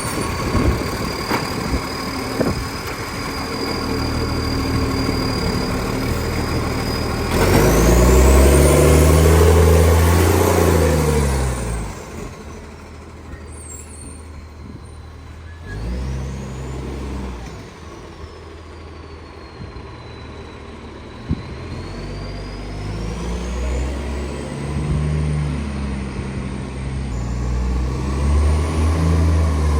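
2013 garbage truck's diesel engine revving up and settling back three times, loudest about a third of the way in, with a high whine that rises and falls with the revs. It carries the rasp of a very large exhaust leak.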